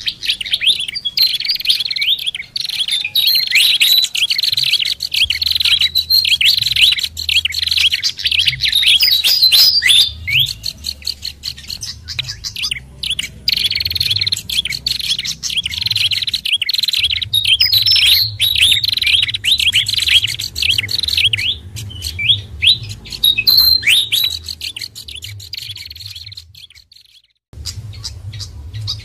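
Bird-lure call track of small songbirds, sikatan kipas, pelanduk bukit and prenjak kepala merah, with dense, rapid, overlapping high chirps and calls. It drops out for about a second near the end before resuming.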